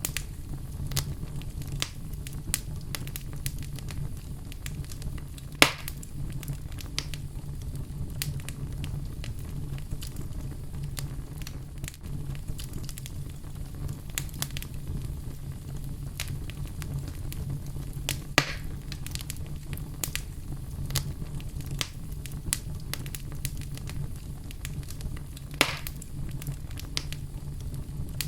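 Fire burning in a fireplace, crackling steadily over a low rumble, with three sharper, louder pops spread through.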